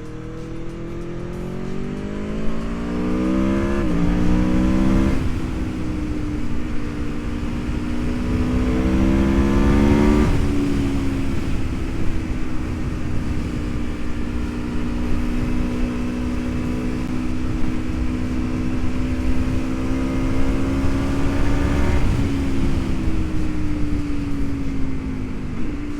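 Aprilia Tuono V4 1100 RR's V4 engine under way, rising in pitch as it accelerates and dropping sharply at upshifts about 4 and 10 seconds in. It then holds a steady cruise, stepping down again near the end. A heavy low rush of riding wind sits under it.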